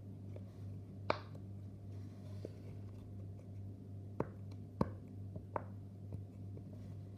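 Small toys being handled: a handful of sharp, light clicks and taps at uneven intervals, over a steady low hum.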